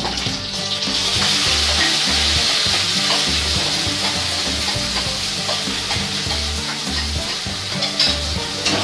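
Wet ground masala paste poured into hot mustard oil in a kadhai, starting a steady frying sizzle about a second in that keeps up as the paste spreads through the oil.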